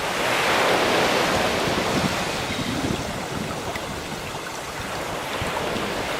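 Ocean surf: a wave swells and breaks about half a second in, then washes out over the following seconds into a steady hiss of water.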